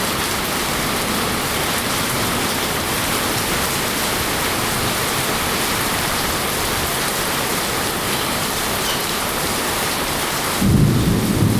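Steady rain falling, with a low rumble of thunder starting suddenly near the end.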